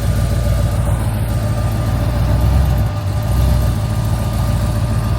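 Twin-turbo LS3 V8 in a custom DeSoto idling with a loud, lumpy, uneven low rumble and a faint steady whine over it.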